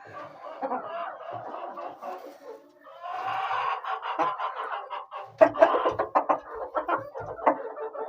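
Chickens clucking. There is a short pause about three seconds in, then busier, louder clucking.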